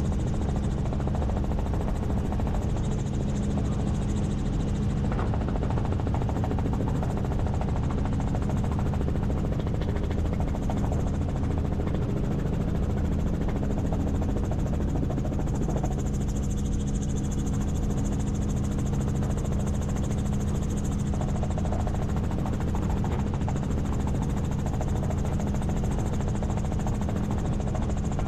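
Helicopter in flight, its engine and rotor making a steady, unbroken drone with a strong low hum.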